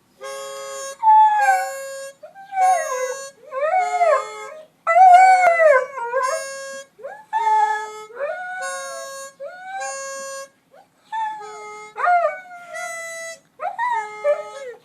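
A dog howling along to a free-reed instrument playing short held chords. The dog's long howls glide up and down in pitch over the steady reedy notes, with a few yips and whimpers between them.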